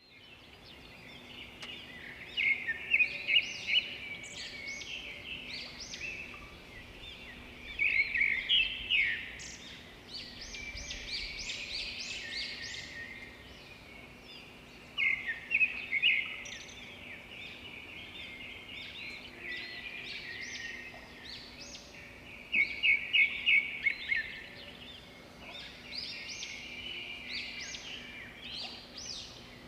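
Songbirds singing and chirping, with several loud bursts of quick, repeated chirps standing out over softer song.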